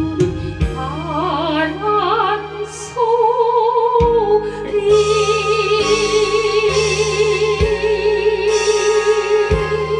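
A woman sings the closing line of a Korean ballad over a backing track, holding the last note with a wide vibrato for about five seconds. A low drum beat and sustained accompaniment play underneath.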